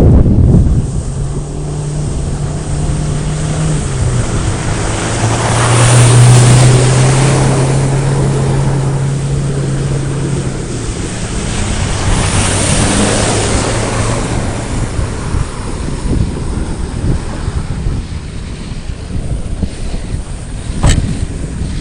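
Off-road vehicle's engine running at a steady pitch that steps down about four seconds in. Two swells of loud rushing noise come over it, and there is one sharp click near the end.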